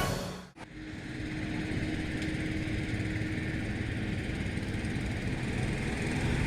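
Steady outdoor background noise with a faint, even engine-like hum, after the tail of music cuts off about half a second in.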